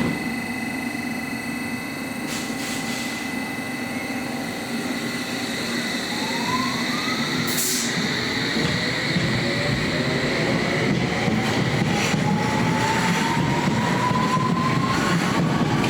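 London Underground S7 Stock train pulling out of a station, its traction motors giving a whine that rises steadily in pitch as it gathers speed. A short hiss comes about halfway through.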